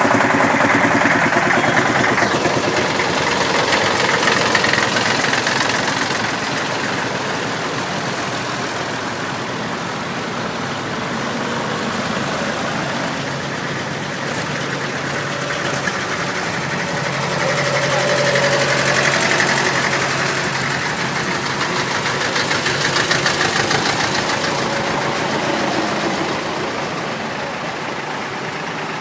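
Vintage tractor engines running, the sound swelling and fading as it goes: louder near the start and again about two-thirds of the way through.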